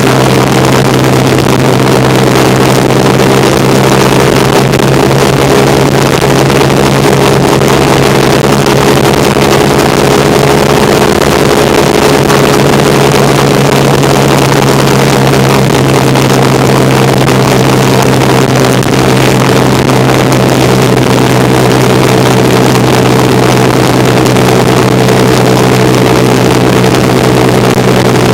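1975 Kawasaki KZ400 parallel-twin engine running at a steady, unchanging pitch while the motorcycle is ridden along, with wind and road noise on the bike-mounted camera.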